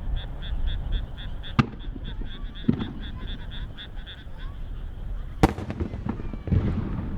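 Aerial firework shells bursting one by one: a sharp bang about a second and a half in, a duller boom near three seconds, the loudest crack about five and a half seconds in, and a rumbling boom near the end. Behind them a frog calls without pause in quick, regular pulses, about five a second.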